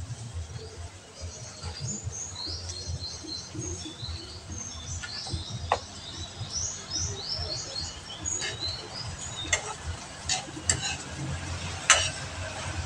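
Small birds chirping in quick high runs of short notes, with a few sharp clicks of a metal spatula against a wok; the loudest click comes near the end.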